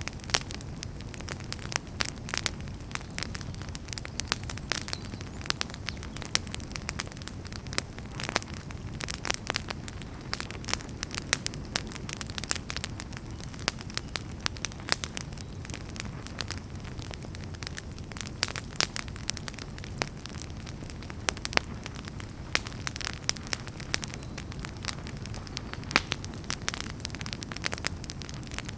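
Wood campfire burning, with frequent sharp pops and crackles over a steady low rumble of flame.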